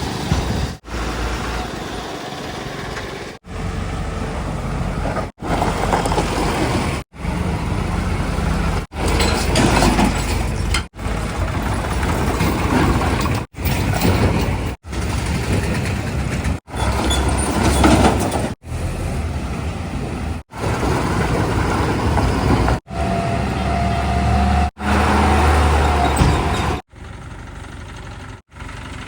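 Diesel engines of heavy vehicles such as trucks, tractors and a backhoe loader running, heard in a string of short pieces that cut off abruptly every couple of seconds.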